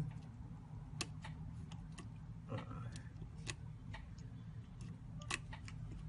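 Light, irregular clicks and taps, about a dozen in six seconds, like small tools handling a phone's parts, over a steady low hum.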